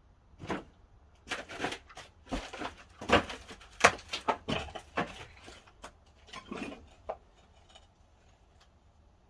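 Pine firewood knocking and clattering as it is handled, about a dozen irregular knocks over some six seconds, loudest in the middle.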